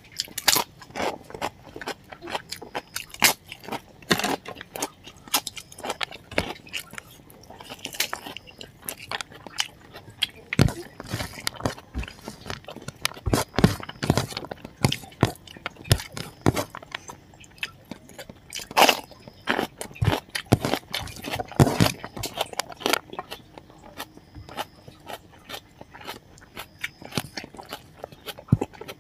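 Close-up eating sounds: crunching and chewing of a mouthful of rice, spicy pork curry and crisp papad eaten by hand, with many sharp, irregular crunches.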